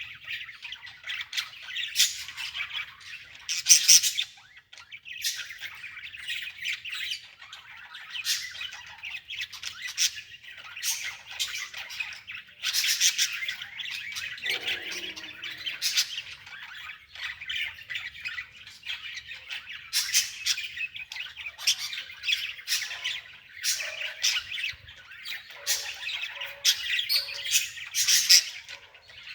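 Many birds squawking and chirping in a dense, continuous chatter, with louder harsh calls every second or two.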